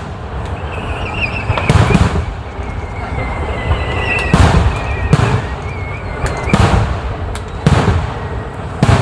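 Aerial firework shells bursting overhead: about six loud booms spread over the stretch, with rumble and crackle between them.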